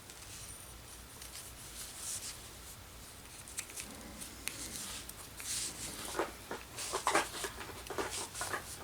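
Light clicks and rustles of hands handling wooden craft sticks and cord while tying them into a small square frame; the clicks come thicker in the second half.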